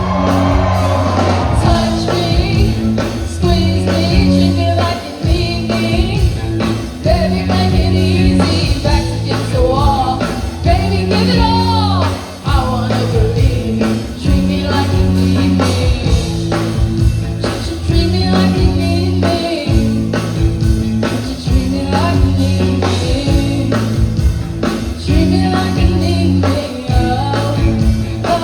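Live rock band playing with a singer, over a steady drum beat and a repeating bass line.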